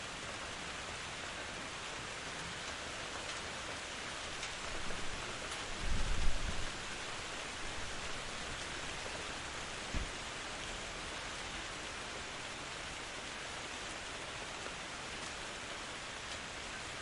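Steady rain falling in a forest, an even, unbroken hiss. About six seconds in there is a brief, loud low rumble, and a shorter low thump comes at about ten seconds.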